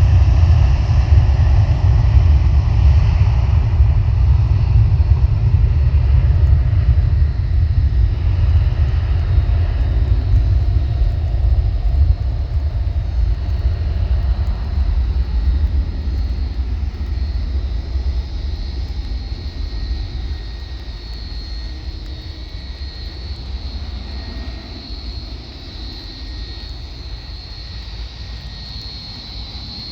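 Jet airliner departing: a deep engine rumble at take-off power that slowly fades as the aircraft moves away, with a thin high whine above it.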